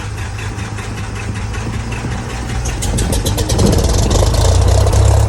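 Light aircraft's piston engine being started: it turns over, catches about three seconds in, and runs with a fast, even pulse, growing louder.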